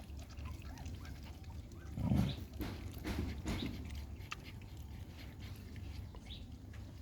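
Puppies eating: scattered small clicks and smacks of chewing, with a brief low sound about two seconds in.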